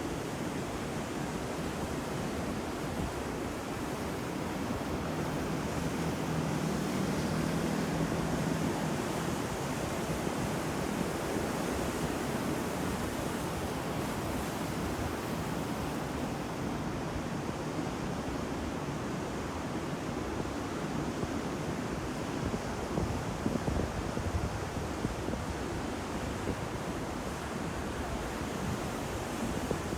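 Ocean waves breaking on a shore in a continuous surf wash that swells and ebbs, with wind rumbling on the microphone in gusts during the second half.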